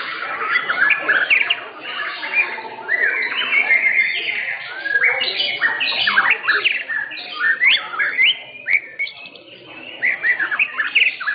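Several white-rumped shamas (murai batu) singing at once: rapid, overlapping whistles and sharp upward-sweeping notes.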